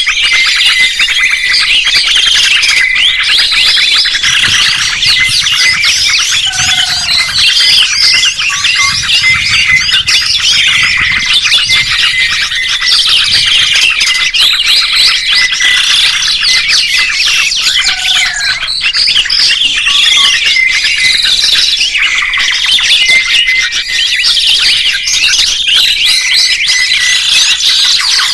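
Songbirds singing loudly and without a break: a dense run of rapid chirps, trills and whistled glides, the sort of song recording used as 'masteran' to teach caged birds their song.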